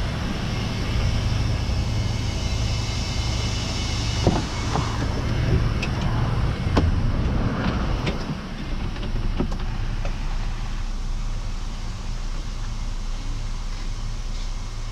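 A truck engine running at idle with a steady low throb. Several clicks and knocks fall between about four and ten seconds in, and a hiss dies away about eight seconds in.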